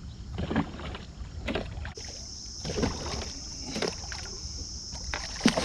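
Scattered knocks and scrapes on a kayak while the catch is handled, over a steady high insect drone that grows louder about two seconds in.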